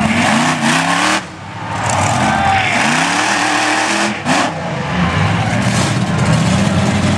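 Monster truck engine revving hard, its pitch climbing in surges. It drops off briefly about a second in and again around four seconds, then holds at high revs during a wheelie run at a car.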